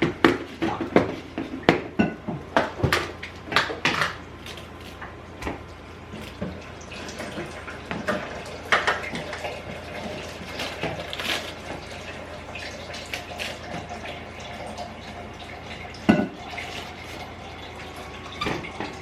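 Kitchen clatter of dishes and containers being handled, with a sharp run of knocks in the first few seconds and water running from a tap.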